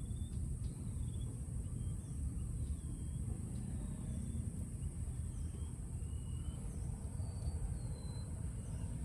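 Outdoor ambience: a steady low rumble under a continuous high-pitched insect drone, with short bird chirps scattered throughout.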